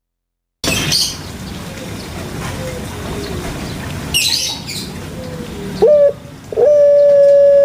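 Puter pelung (Barbary dove, Streptopelia risoria) cooing: faint low coos at first, then near the end a short coo followed by a loud, long, drawn-out steady coo.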